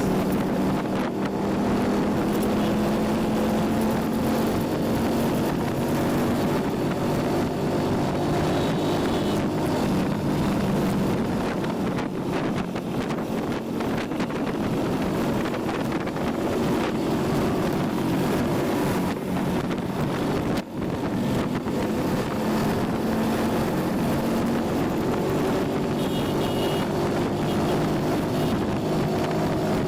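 Yamaha Junoon motorcycle engine running while riding, its pitch rising and falling slowly with speed, with wind on the microphone.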